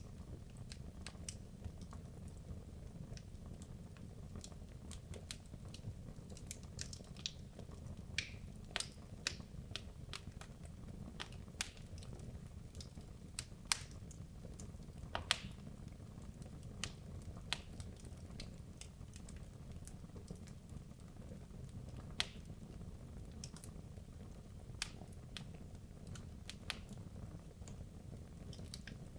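Wood logs burning in a fireplace: a steady low rumble of flames with irregular sharp crackles and pops from the burning wood.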